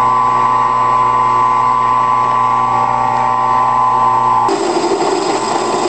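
A converted 10x18 wood lathe running under a heavier cut in cast iron, with a steady motor whine. About four and a half seconds in, a rougher, hissing cutting noise starts abruptly over the whine.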